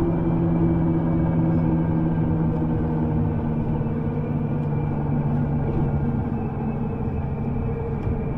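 U-Bahn train running, a steady rumble with a motor hum whose pitch drops slightly past the middle.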